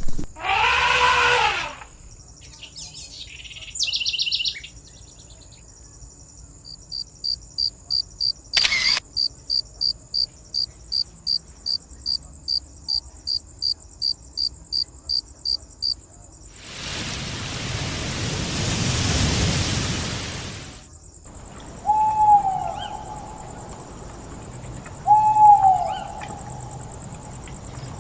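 Night ambience with a steady high insect trill throughout. It opens with a brief pitched animal call, then comes a long run of evenly spaced high chirps at about two a second, then a rush of noise that swells and fades. Near the end, two short owl hoots fall in pitch.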